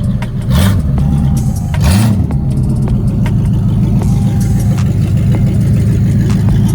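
Car engine running steadily, revved briefly twice in the first couple of seconds.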